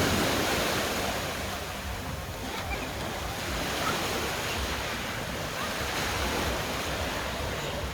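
Black Sea surf washing on the shore, with one wave breaking loudest right at the start, then a steady wash.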